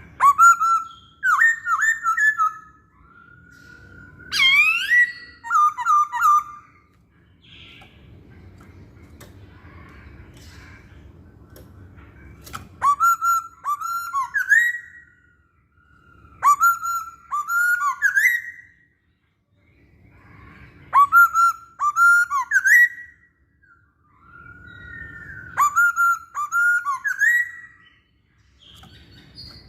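Poksay Hongkong laughingthrush singing loud, clear whistled phrases. Each phrase is a quick run of swooping and rising notes, and they come about every four seconds with short pauses between.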